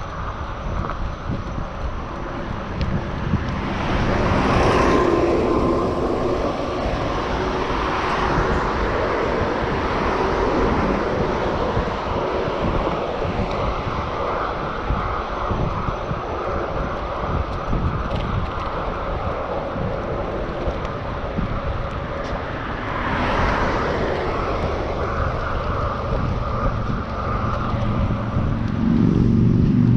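Wind and road noise from a moving bicycle, swelling about four seconds in and again a little past twenty seconds as motor traffic passes, with a low engine sound growing louder near the end.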